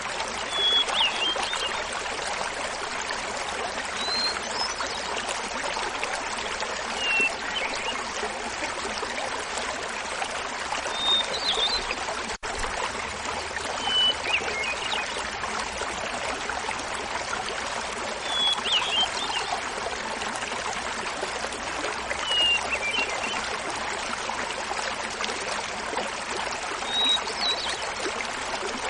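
Small mountain waterfall splashing steadily, with a hermit thrush singing short phrases every three to four seconds, each at a different pitch.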